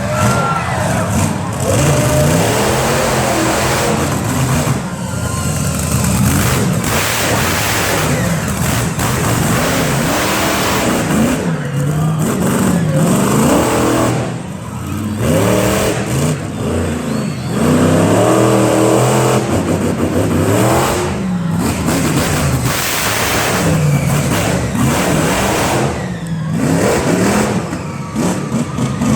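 Monster truck engine revving hard, its pitch climbing and falling over and over with brief lets-off between pulls.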